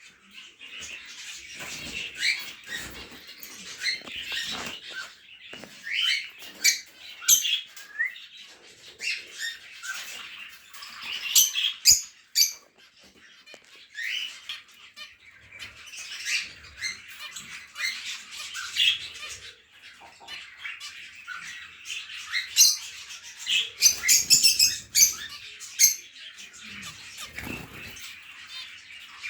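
Many caged pet birds (lovebirds, cockatiels, Java sparrows and zebra finches) chirping and squawking over one another in a steady, busy chatter, with the odd sharp click or thump among the calls.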